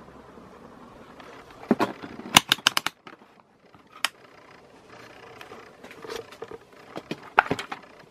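Irregular sharp clicks and knocks over a faint steady hum: a quick cluster about two seconds in, a single click a little later, and a few more near the end. The hum drops away about three seconds in.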